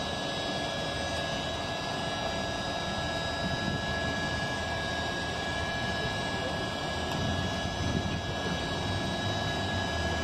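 Inside the cabin of a 2019 ENC Axess bus powered by a Cummins Westport L9N natural-gas engine: a steady low rumble with several steady high whines over it.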